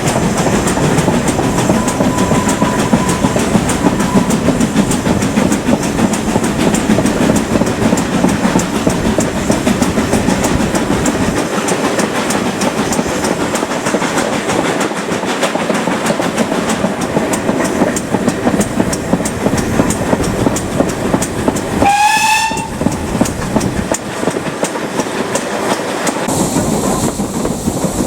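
Steam train running on the line, with a continuous rumble and the steady clickety-clack of wheels over the rail joints. About three-quarters of the way through, the locomotive gives one short steam-whistle blast that rises slightly in pitch.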